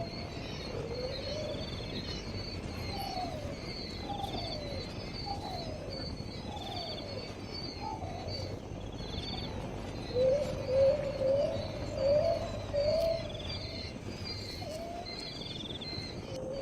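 Birds calling: short low sliding calls repeat about once a second over steady high chirping, and a louder wavering low call comes in several pulses around the middle.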